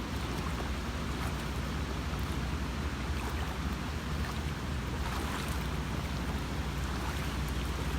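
Steady rushing noise of storm wind and floodwater, heavy in the low end, with no distinct strokes or pitch changes.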